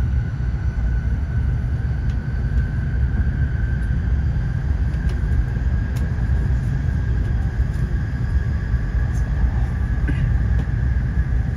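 Interior noise of an N700S shinkansen running on the line: a steady low rumble with a thin, steady high whine over it.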